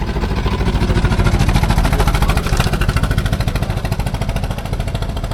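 Antique car engine chugging with a rapid, even beat as it drives past, loudest about two seconds in and then fading slightly.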